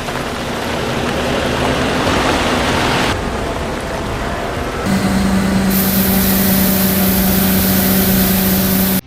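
Turbine-powered firefighting vehicle running its spray turbine: a steady, loud rush of air and water mist with an engine hum. About five seconds in, the sound shifts to a strong steady hum with a bright high hiss.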